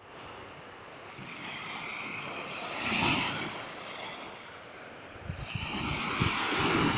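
Sea waves breaking on the shore, a rushing wash that swells twice, about three seconds in and again near the end.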